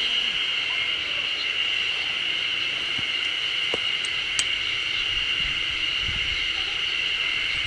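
Steady high-pitched drone of insects with a few faint clicks.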